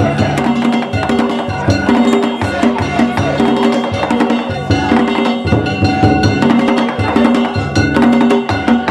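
Danjiri festival hayashi: taiko drums and metal hand gongs (kane) beating a fast, steady repeating rhythm.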